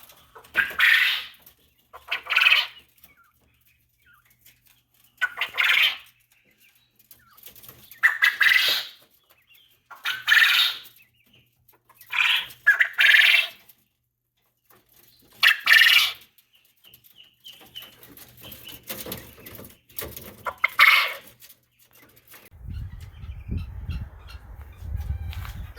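Coturnix quail calling: about eight short, loud, high-pitched calls spaced a few seconds apart, then a low rumble near the end.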